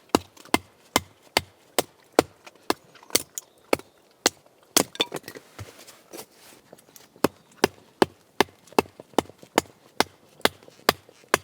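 Batoning kindling: a knife driven through firewood by repeated strikes on its spine with a baton, a sharp wooden knock about twice a second, with a brief lull in the middle before the strikes resume.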